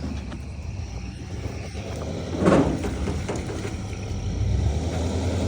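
A vehicle engine running with a low rumble, with one loud clunk about two and a half seconds in. The engine grows louder near the end.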